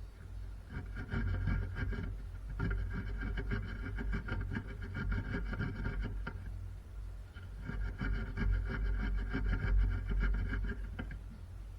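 A handheld power tool running in three bursts of a few seconds each, with a steady whine and a rapid clatter.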